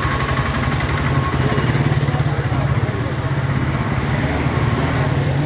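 Diesel passenger train heard from inside the carriage: a steady low engine drone over continuous running noise.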